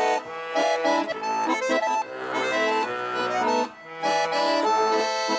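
Accordion playing an instrumental break between sung verses of a song: a melody of short held notes and chords.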